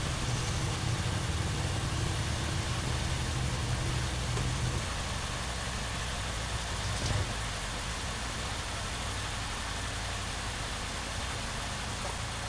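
Mazda 6 engine idling steadily, a running check that the new transmission axle seal no longer leaks; a brief click about seven seconds in.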